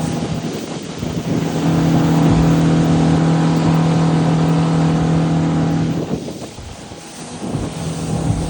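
Boat engine running with a steady hum over a rushing hiss; it drops away about six seconds in and picks up again near the end.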